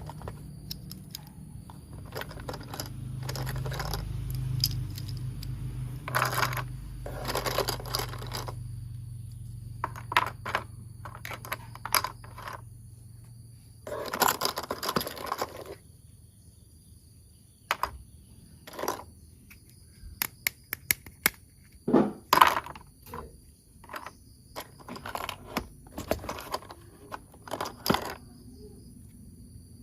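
Plastic toy train parts being handled and fitted together: irregular clicks, clacks and scrapes, with a few longer stretches of rustling.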